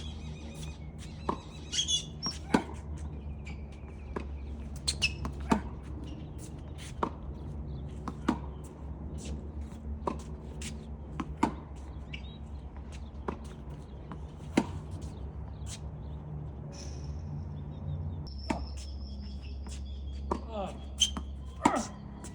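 Tennis ball struck back and forth by rackets in a rally, a sharp pop about every one and a half seconds, over a steady low rumble of wind on the microphone.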